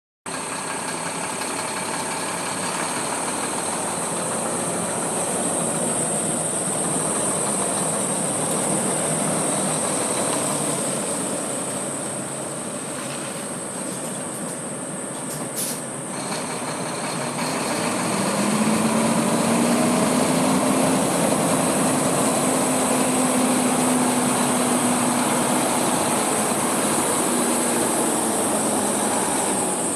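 Heavy truck's Volvo diesel engine running steadily, with a hum that rises slightly in pitch about 18 seconds in and holds.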